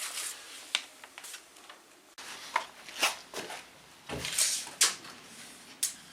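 Wooden boards and plywood pieces being handled, giving a series of about eight irregular light knocks and clatters, with one duller thump a little past four seconds in.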